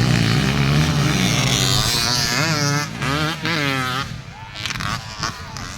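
Motocross dirt bike engines revving hard, the pitch rising and falling, then dropping off about four seconds in.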